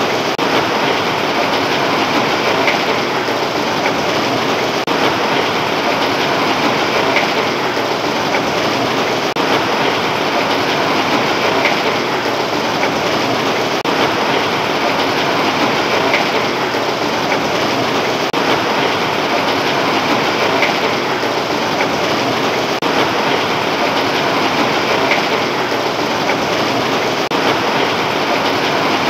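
Heavy rain pouring down steadily, a dense even hiss that never lets up.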